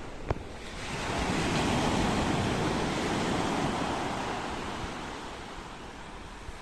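Ocean surf: a wave washes in, swelling about a second in and slowly fading away, with a short click just after the start.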